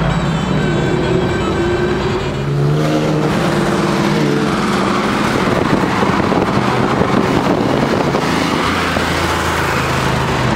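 Porsche 911 flat-six engine revving and accelerating hard, heard from inside the car. The pitch climbs over the first few seconds, then turns into a loud, rough full-throttle sound.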